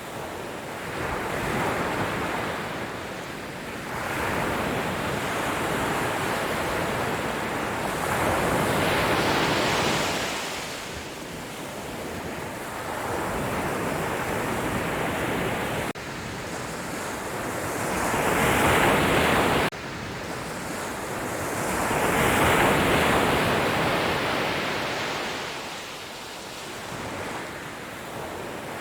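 Sea waves breaking and washing up on the shore, each surge swelling and fading every few seconds. The sound cuts off abruptly twice in the middle.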